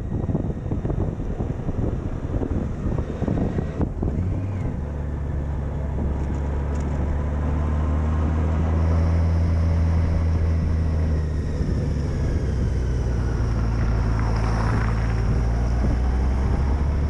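Wind buffeting the microphone for the first few seconds, giving way about four and a half seconds in to a steady low hum like a running engine.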